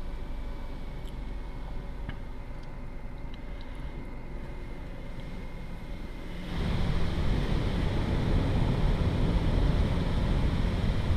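Automatic car wash heard from inside the car: a low steady hum, then about six and a half seconds in a loud, steady rush of water spray starts hitting the car's body.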